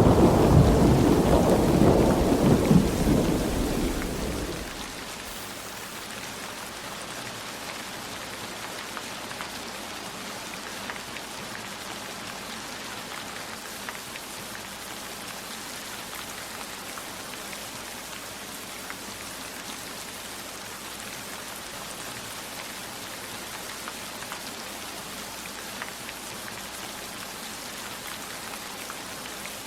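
A rumble of thunder dying away over the first four seconds or so, leaving steady heavy rain with scattered drops.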